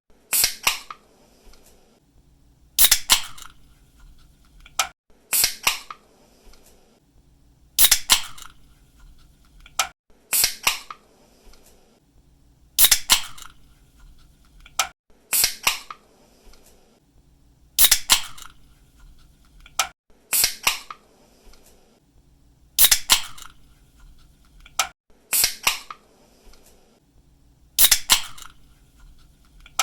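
Aluminium soda or energy-drink can being opened by its pull tab, over and over: a sharp snap of the tab followed by a short hiss, repeating about every two and a half seconds.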